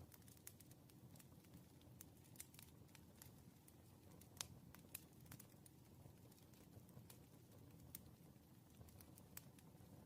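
Faint wood fire crackling: irregular sharp pops and snaps over a low steady rumble of flames, with one louder pop about four and a half seconds in.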